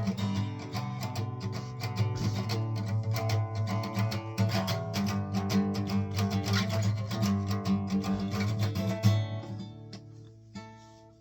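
Acoustic guitar strummed in a steady run of chords; about nine seconds in the playing stops and the last chord rings out and fades away.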